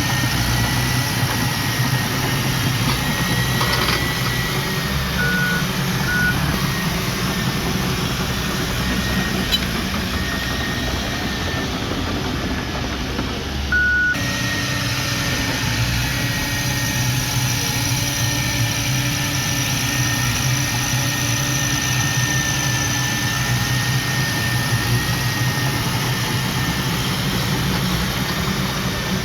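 Diesel engine of heavy earth-moving machinery running steadily, with a high wavering whine above it. Three short beeps cut through: two close together early on and one about halfway.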